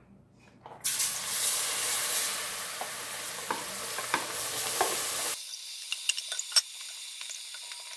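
Chopped yellow onions dropped into hot roux (flour and peanut oil) in an enameled pot, setting off a loud sizzle about a second in. Near five seconds the sizzle drops suddenly to a fainter hiss with a few light knocks.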